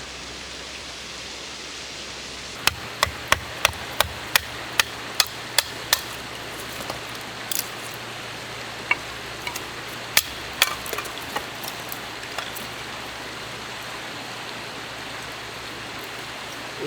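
A run of about ten sharp knocks, roughly three a second, like hammer blows, then a few scattered lighter knocks, over a steady rushing hiss.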